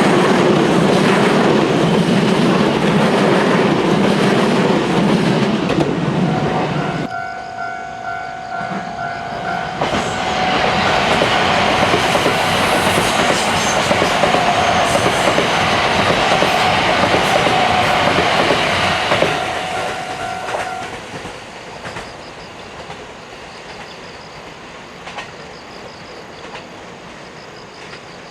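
Trains passing with wheels clattering over the rail joints: one loud pass fades about seven seconds in, and a second runs from about ten to nineteen seconds in. A steady pitched tone sounds through the middle stretch, and then the noise dies away.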